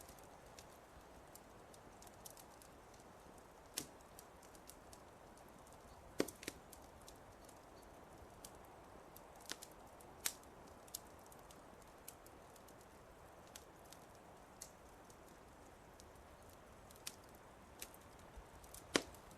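Wood fire crackling in a fireplace: irregular sharp pops and snaps over a soft steady hiss, with the loudest pops about six seconds in and near the end.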